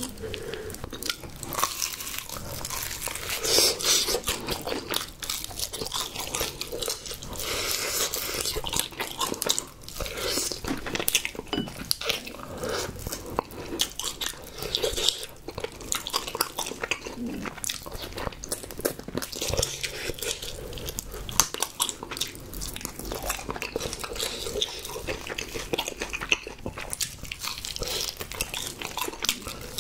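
Close-miked eating of spicy sauced fried chicken: repeated crisp crunches of the fried coating as it is bitten, with wet chewing in between.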